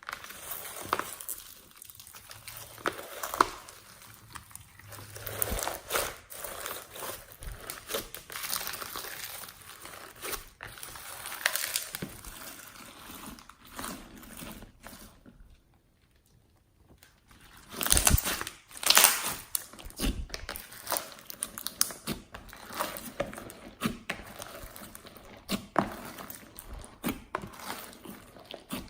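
Slime being mixed and squished, a run of sticky crackling and clicking. It stops briefly a little past halfway, and the loudest squelches come just after.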